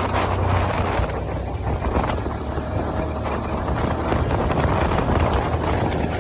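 A motor vehicle's engine running steadily, with wind buffeting the microphone.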